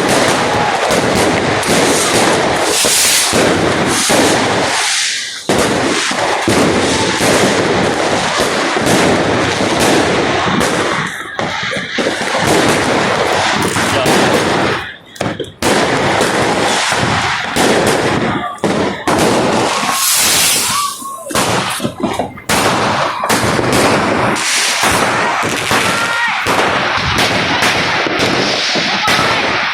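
Dense, continuous barrage of fireworks and firecrackers: many sharp bangs and crackles overlapping, broken by a few brief lulls. A couple of short rising whistles near the end.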